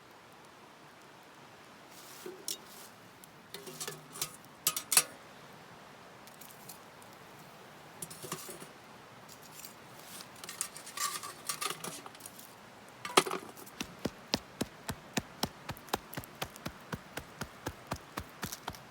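Scattered sharp clicks and clinks, then a steady run of light ticks or taps, about three a second, from about fourteen seconds in.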